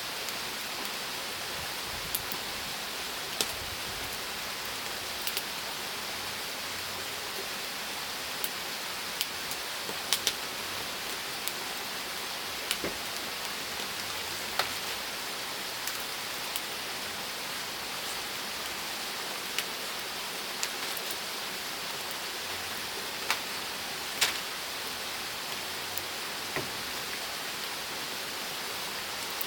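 Wood fire burning with a steady hiss and scattered sharp crackles and pops at irregular intervals.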